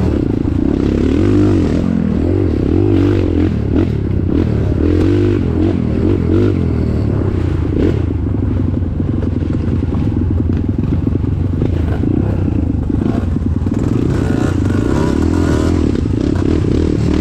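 A vehicle engine running continuously and loudly, its revs rising and falling.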